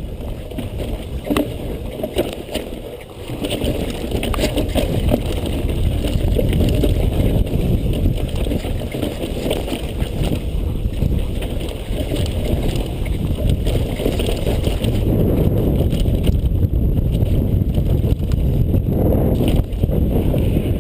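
A Santa Cruz V10 downhill mountain bike ridden fast over a rough track: wind rushes over the microphone, with scattered clicks and rattles from the bike, tyres and chain. The noise falls away sharply at the very end.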